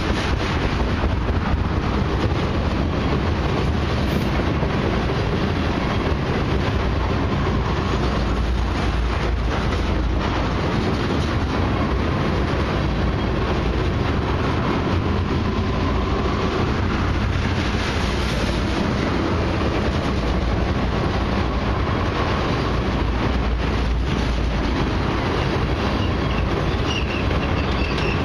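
Loaded crude-oil tank cars rolling past on the nearest track: a steady, loud rumble of steel wheels on rail with continual clicking and clatter.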